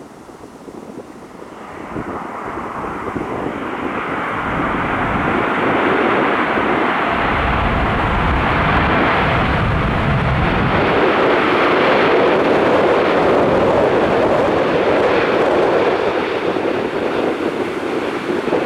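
Boeing 787-9 Dreamliner's jet engines on final approach to land, the noise building over the first few seconds and then staying loud, with a deep rumble in the middle as it passes.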